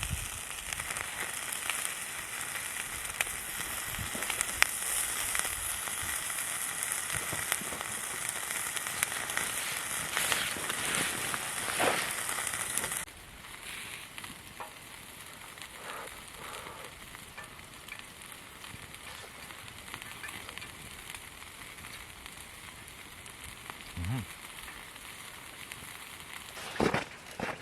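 Food sizzling and crackling as it cooks over heat. The sizzle is loud and dense for the first half, then drops suddenly to a quieter, sparser crackle about halfway through.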